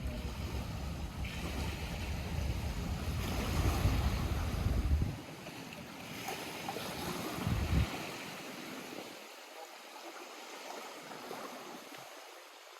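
Lake water lapping and washing at the shore. For the first five seconds, and again briefly about eight seconds in, wind buffets the microphone with a low rumble; after that the water is quieter and thinner.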